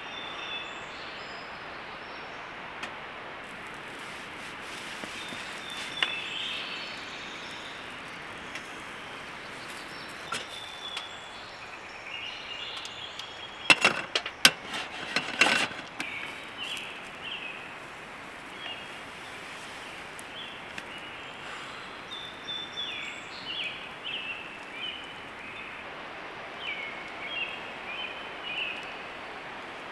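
Steady outdoor hiss with small birds chirping, in short repeated calls that come thicker in the second half. Occasional sharp pops, and a quick run of loud cracks about halfway through, fit a campfire crackling while pork skewers grill.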